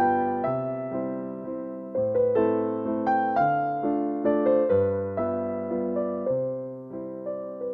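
Background piano music: a slow, gentle piece with notes struck in a steady, flowing pattern over sustained bass notes that change every second or two.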